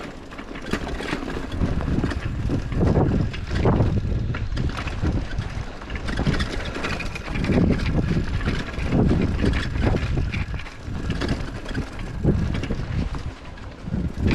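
Wind buffeting the microphone of a camera carried on a moving bicycle, swelling and dropping unevenly, with scattered small knocks from the ride.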